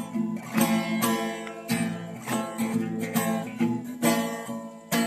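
Acoustic guitar strummed in a steady rhythm, about two strokes a second, accompanying a song between sung lines.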